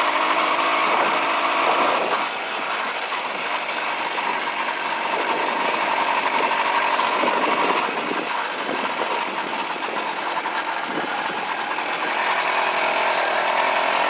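Small gasoline engine of a motorized bicycle running under way, a steady buzzing drone that eases off about two seconds in and again about eight seconds in before picking back up.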